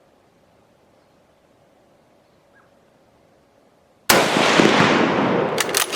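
A single rifle shot from a Mosin-Nagant 91/30 about four seconds in, sudden and loud, echoing as it dies away over a second or so, followed by a few sharp clicks. Before the shot it is nearly quiet.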